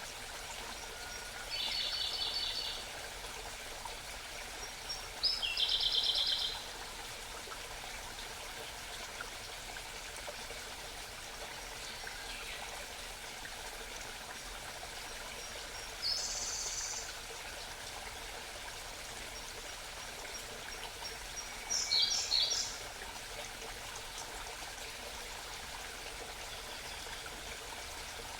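A small songbird singing short, high, rapidly trilled phrases, four times, over the steady babble of a nearby mountain stream.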